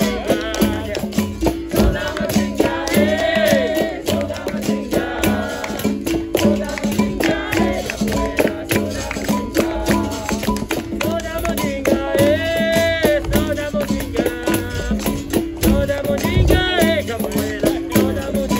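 Capoeira roda music: berimbau notes with a shaken caxixi rattle and percussion, under sung verses. The rhythm is dense and continuous.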